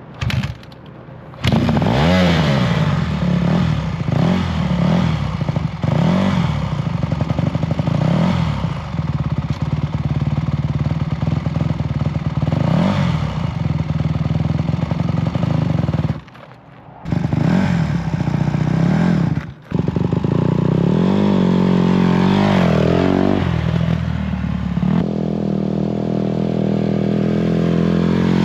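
Honda dirt bike engine, ridden by a learner, revving up and easing off over and over as it pulls away and changes speed. It breaks off briefly twice near the middle, then climbs in pitch and runs steadier near the end.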